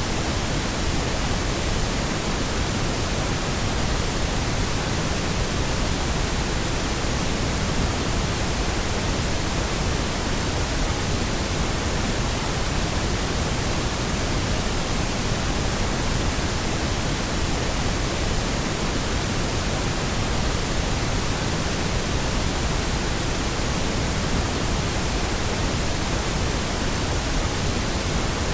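Synthetic pink noise: a steady, unchanging hiss across the whole range.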